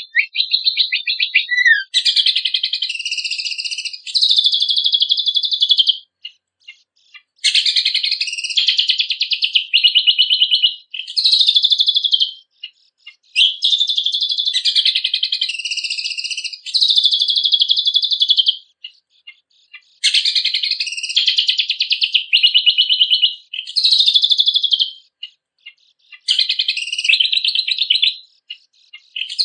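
A cucak kombok (kecial kombok) singing a busy, high-pitched song of rapid trills and chatter. It comes in phrases a few seconds long with short pauses between them, and the phrases repeat in much the same pattern.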